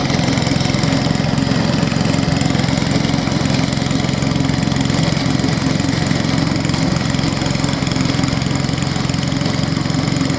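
Snow blower engine running steadily at an even pitch.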